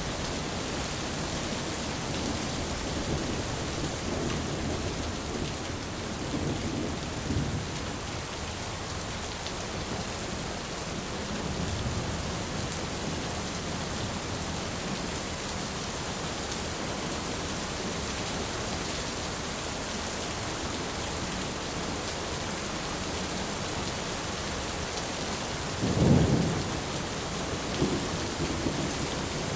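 Thunderstorm: steady rain with faint low rolls of thunder, and a louder, sharper thunderclap near the end.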